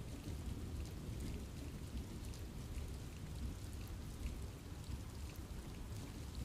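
Steady rain falling in a forest, a dense patter with scattered individual drops ticking through it and a low, even rumble underneath.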